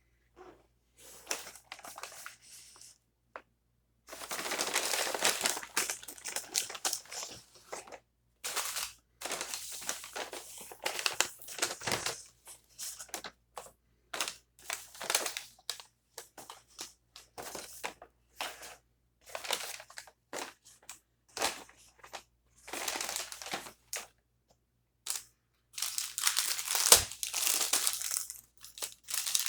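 Food packaging being crinkled, crumpled and torn open in irregular bursts with short pauses, as the takeout is unwrapped.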